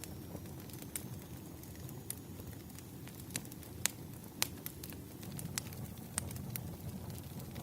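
Wood fire crackling: scattered sharp pops and snaps, a few louder ones near the middle, over a steady low rumble.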